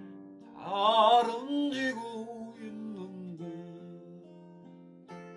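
Acoustic guitar accompaniment with plucked, ringing notes, and a voice singing one short line with vibrato about a second in; the guitar then rings on alone with a few new notes.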